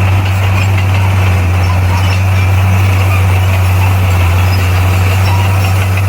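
Large diesel engine of heavy earthmoving equipment running steadily with a deep, even drone.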